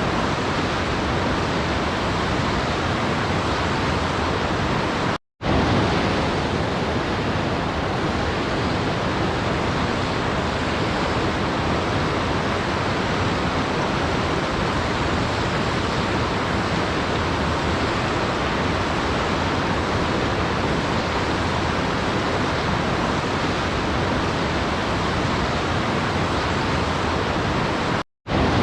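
Steady, even rush of a waterfall, broken twice by a sudden split-second dropout to silence: about five seconds in and near the end.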